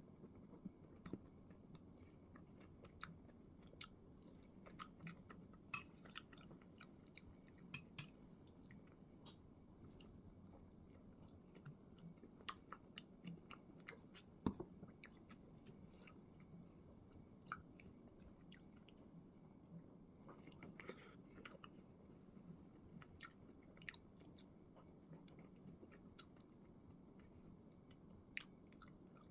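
Quiet close-up chewing of soft red-bean bread with whipped cream, with many small wet mouth clicks and smacks scattered through, one sharper click about halfway, over a faint low room hum.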